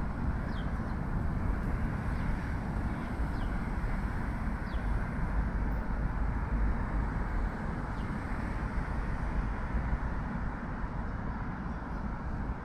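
Steady rumble of heavy road traffic, with a few faint short high chirps over it.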